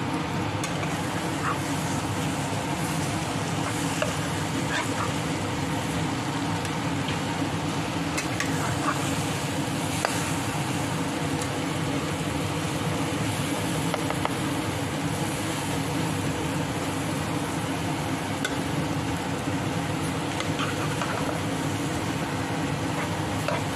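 Bean sprouts and egg frying in a nonstick pan with a steady sizzle. A spatula stirs and scrapes now and then, making faint clicks, over a steady low hum.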